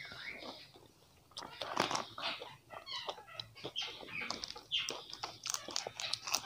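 Close-miked chewing of chocolate and wafer snacks: a quick run of short crunches and wet mouth clicks, starting about a second in.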